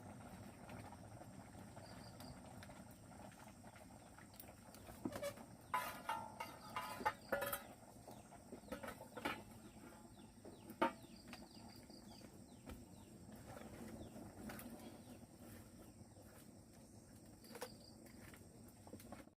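Faint animal sounds: short calls with scattered clicks and knocks, busiest between about five and eleven seconds in.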